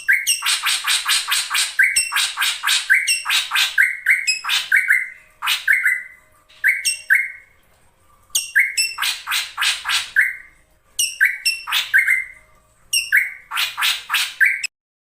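Female drongo calling: phrases of fast, harsh, rasping notes, several a second, mixed with short clear whistles and broken by brief pauses. It is a lure call used to stir male drongos into singing.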